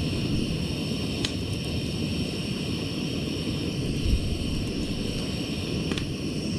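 Gas camp stove burner running steadily under a pot of water heating for coffee, with a couple of faint ticks about a second in and near the end.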